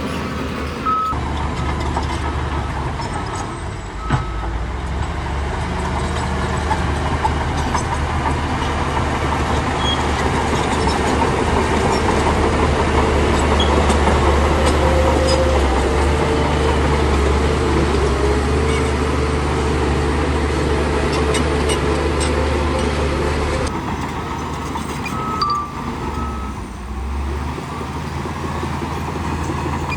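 Bulldozer's diesel engine running under load, louder and harsher through the middle and easing off near the end.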